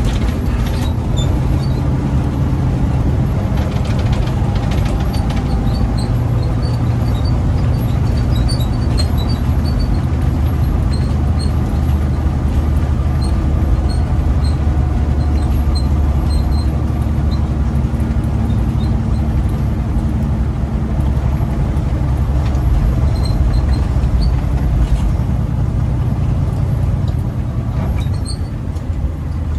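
Big rig's diesel engine running steadily under load, heard from inside the cab while driving, with a low drone and road noise whose pitch drifts slowly.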